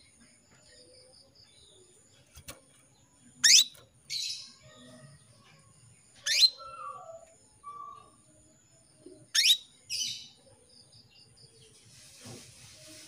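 Female canary calling to a male: three short, sharply rising call notes about three seconds apart, two of them followed by a softer brief chatter. These calls are those of a female in breeding condition.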